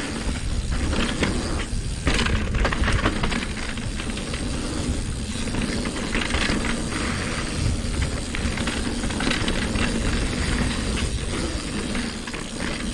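Hardtail mountain bike rolling fast down a rough dirt trail: steady tyre and wind noise with a constant clatter of chain slap and frame rattles over rocks and roots.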